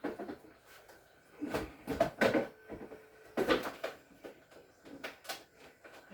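Irregular knocks and clatters of hard parts being handled and set down, loudest in a cluster about one and a half to two and a half seconds in and again about three and a half seconds in.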